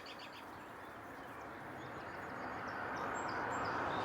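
A vehicle approaching on the road, its tyre and engine noise growing steadily louder, with a few faint bird chirps about three seconds in.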